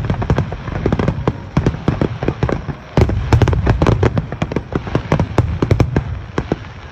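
Aerial fireworks shells bursting in a rapid, continuous barrage of sharp bangs and crackles. There is a brief lull just before three seconds in, then a new volley starts loudly.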